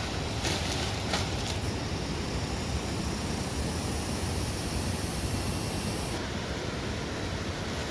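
Steady outdoor background noise with a low rumble, a few light clicks in the first second and a half, and a faint high hiss in the middle that cuts off suddenly about six seconds in.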